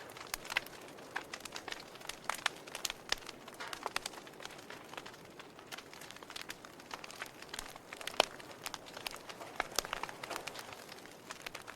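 Wood fire in a fireplace crackling, with irregular sharp pops over a soft hiss; one pop about eight seconds in is the loudest.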